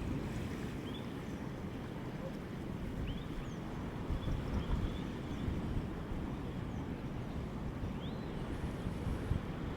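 Strong gusting wind rumbling on the microphone over the wash of rough sea, with a few faint short bird calls scattered through.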